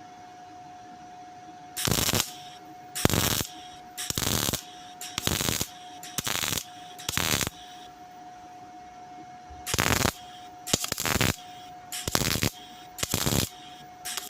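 A welder laying short tack-like blips on sheet steel: about a dozen crackling bursts, each under half a second, with short gaps between them. The welds are filling pinholes along a seam in a steel Ford Cortina wing repair. A steady thin hum sounds underneath between the bursts.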